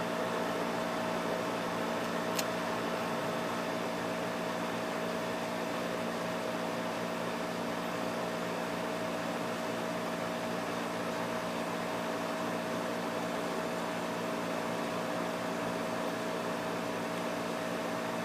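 Springer 12,000 BTU air conditioner running steadily: an even whoosh of air with a low hum and one clear steady tone, and a faint click about two seconds in.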